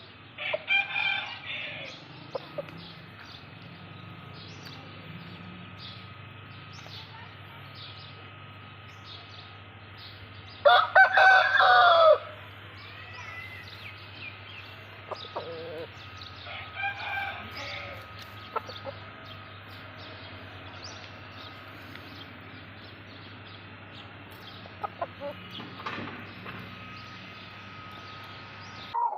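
Aseel roosters calling and clucking, with one loud crow about eleven seconds in and quieter calls near the start and around seventeen seconds in.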